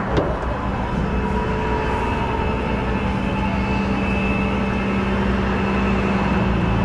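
A tow truck's engine running steadily: a constant low drone with a faint steady whine above it, and a short click just after the start.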